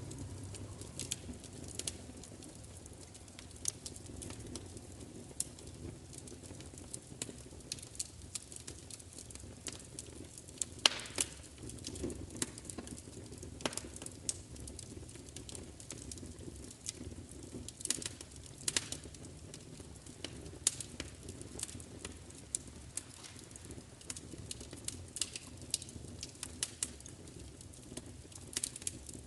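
Wood fire crackling, with irregular sharp pops and snaps over a steady low rumble of the flames; one pop about eleven seconds in stands out as the loudest.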